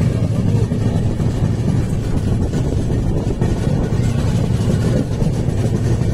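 Passenger train running along the line, heard from an open coach doorway: a steady low rumble of wheels on the rails.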